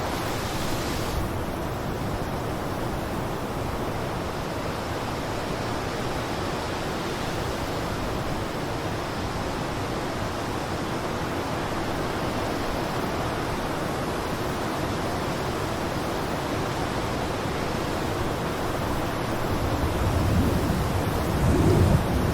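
Blizzard wind blowing as a steady rushing hiss, swelling into a louder, deeper gust near the end.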